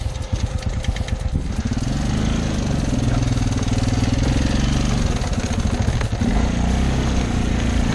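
Small off-road vehicle engine, low and pulsing at first, then picking up revs about a second and a half in and running steadily under throttle, with a brief dip near six seconds.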